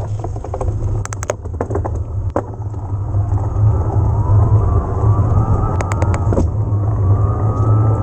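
Yamaha PW-X mid-drive e-bike motor whining under the ride, its pitch rising slowly from about halfway through, over a steady low rumble of riding noise on the mic. Bursts of sharp clicks and knocks come about a second in and again near six seconds.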